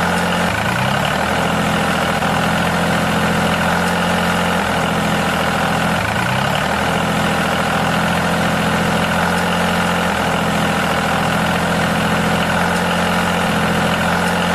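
Engine idling steadily, with a few brief dips in pitch.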